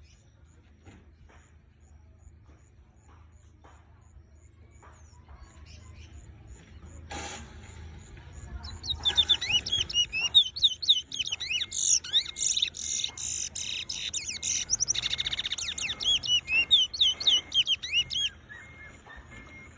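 Caged bullfinch singing: faint scattered chirps at first, then, about halfway through, a loud, fast run of repeated rising whistled notes mixed with buzzy trills that stops shortly before the end.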